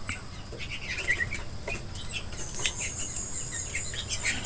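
Small birds giving short, scattered chirps and squeaks, over a steady high-pitched background whine.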